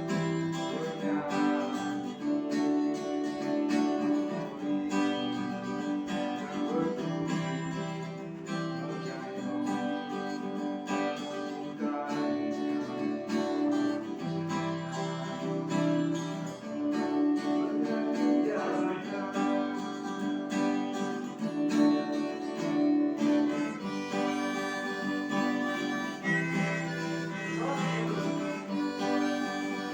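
Instrumental music led by acoustic guitar, with a melody line over it and no singing.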